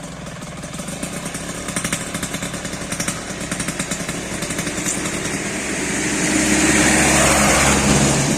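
Yamaha F1ZR two-stroke single-cylinder engine running through an FJP racing exhaust, first at a low, uneven popping beat, then revved up and held high for a couple of seconds before dropping back near the end.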